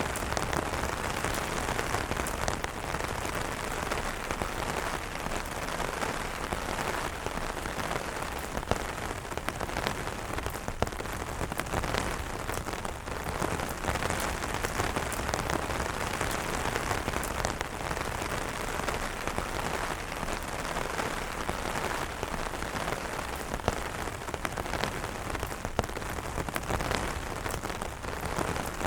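Steady rain falling on an umbrella: an even hiss with many sharp single drop hits scattered through it.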